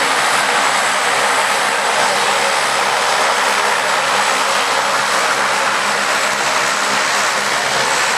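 Airbus A320 jet engines running loud and steady, a dense rushing noise with a thin high whine on top.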